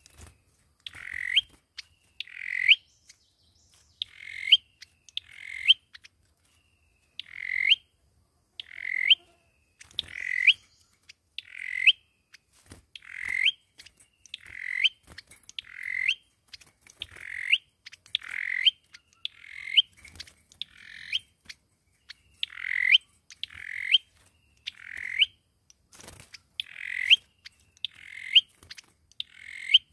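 Sâu dừa birds calling over and over in their duelling song, the lure call used for trapping. Each call is a short note that rises in pitch, repeated about once every second and a half.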